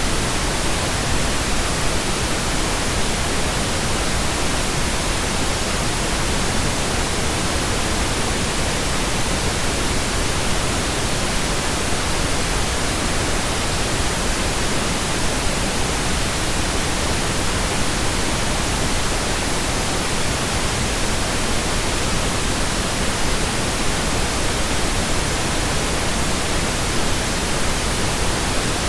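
Steady computer-generated pink noise: an even, unbroken hiss with no changes.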